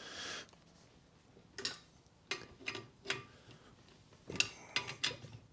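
Scattered metallic clicks and knocks from a bar and socket working the wheel bolts as they are checked for tightness by hand. There is a short rustle at the start.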